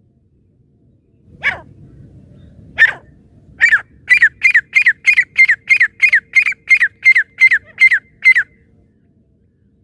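Francolin (teetar) calling: two single sharp notes, then a quick run of about a dozen loud notes, each dropping in pitch, about three a second.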